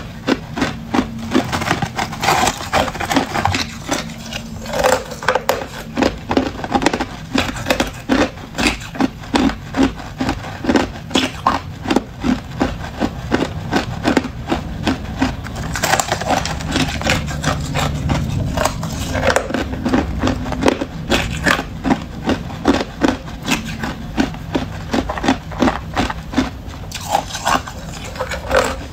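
Close-up crunching of hard clear ice being bitten and chewed: a steady run of sharp cracks, about three a second, with an occasional longer crackle as a chunk breaks apart.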